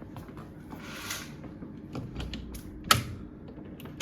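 Irregular small mechanical clicks and knocks of things being handled, with one sharp, louder click about three seconds in, over a steady low hum.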